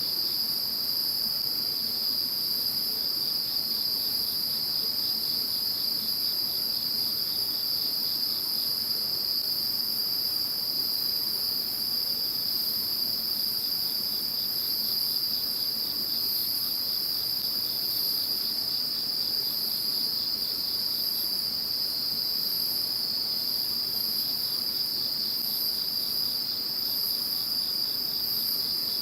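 A chorus of insects chirring without pause: one steady high trill, with a still higher one pulsing over it.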